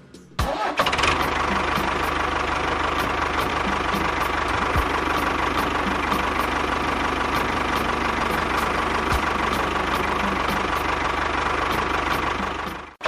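A small engine running steadily at an even speed, cutting off abruptly near the end.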